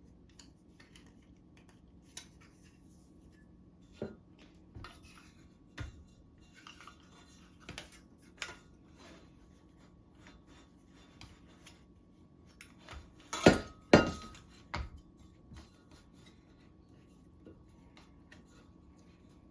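A thin aluminum sheet and hand tools being handled on a table: scattered light metallic clinks and taps, with two louder clanks about two-thirds of the way through.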